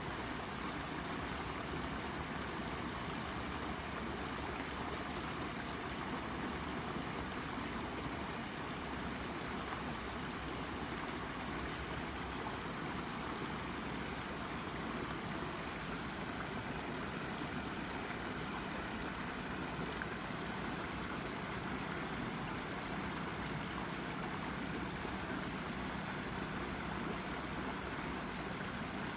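Shallow brook babbling and trickling over a rock in a steady, even rush of water.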